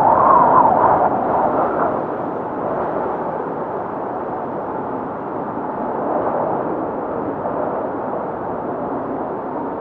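Blizzard wind howling in gusts. A stronger gust with a wavering, whistling pitch peaks in the first two seconds, then eases into a steady rushing.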